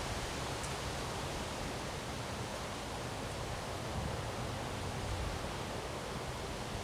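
Windstorm wind blowing steadily, a rushing hiss with some low rumble of wind on the microphone.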